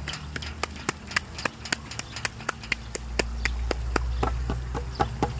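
A parrot making a rapid, even run of sharp clicks, about four a second, like a drum roll. Short chirps join in near the end.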